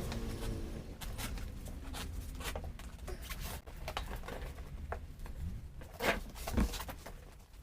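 Scattered clicks and light knocks of tools and parts being handled while changing a motorcycle's front tyre, with a couple of louder knocks about six seconds in.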